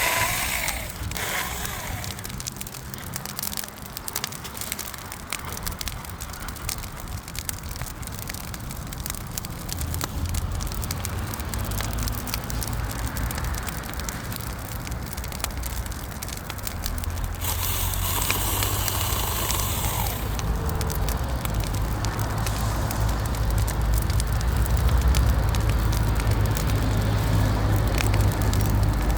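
Bonfire burning, wood crackling and popping throughout, over a low rumble that grows louder in the second half.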